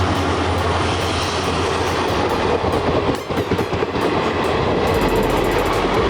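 Moving passenger train running along the track: a steady rumble of wheels on rails with clickety-clack.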